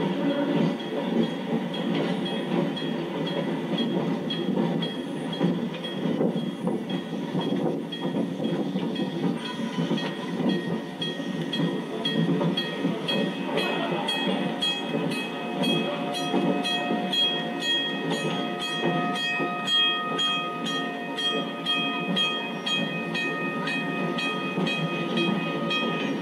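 Rumble and clickety-clack of a moving heritage train heard from its caboose, with faint regular clicking from the wheels. From about halfway, several steady high tones join the rumble and carry on.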